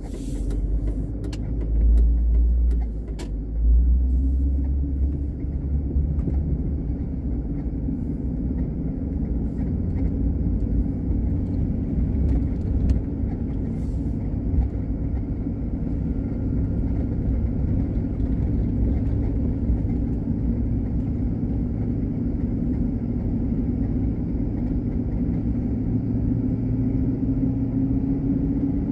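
Steady low rumble of a car driving, engine and road noise droning evenly, with a few heavier low thumps and clicks in the first few seconds.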